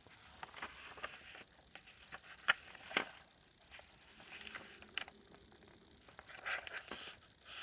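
Faint rustling and soft taps of paper and card being handled as the pages of a handmade junk journal are turned, with scattered small clicks.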